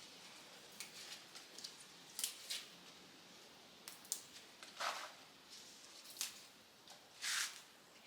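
Salad greens such as Swiss chard and lettuce being cut: faint, scattered snips and leaf rustles, about seven short sounds, the loudest two near the middle and near the end.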